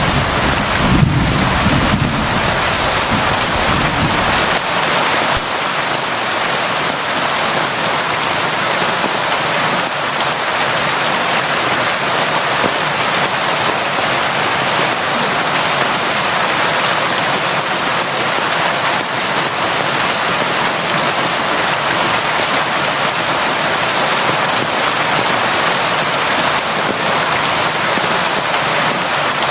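Steady, heavy rain: a dense, even hiss of falling rain. A low rumble underneath dies away about four seconds in.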